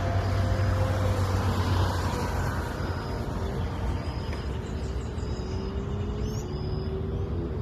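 Road traffic: a motor vehicle's engine rumbling as it passes, its pitch falling over the first few seconds and then rising again. A faint high chirp repeats about once a second in the background.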